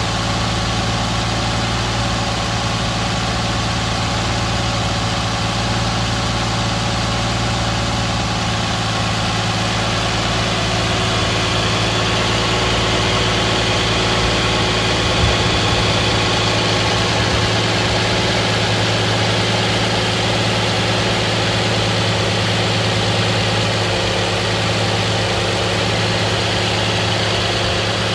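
2010 Nissan Maxima's 3.5-litre V6 idling steadily just after a cold start, with no knocking. There is one faint tick about halfway through.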